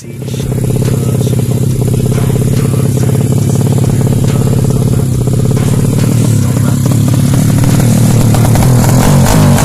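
200cc four-stroke bebek (underbone) drag bike engine running loud at a steady speed, its pitch starting to waver and rise and fall in the last few seconds as the throttle is worked during tuning.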